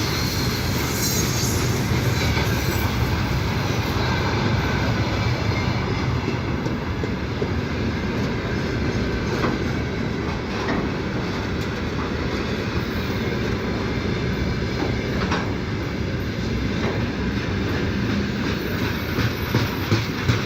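Freight train wagons rolling past at speed: a steady heavy rumble with the wheels clacking over rail joints now and then.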